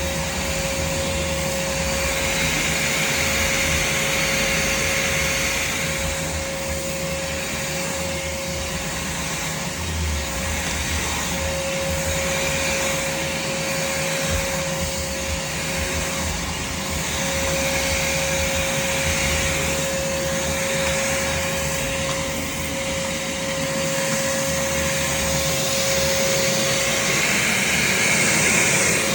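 Craftsman shop vac running steadily, with a constant motor whine over the rush of suction air. The air rush swells and fades every few seconds.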